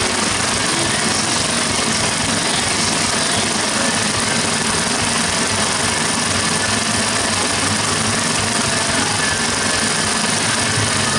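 IHC H-4 magneto on a test run, giving a steady, fast, rattling mechanical sound that holds even throughout.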